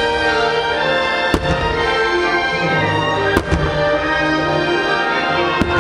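Fireworks show soundtrack music with firework shells bursting over it: three sharp bangs, about two seconds apart.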